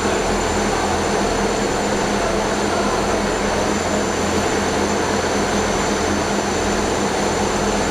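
Steady running of a diesel passenger train, an even noise with a constant low hum.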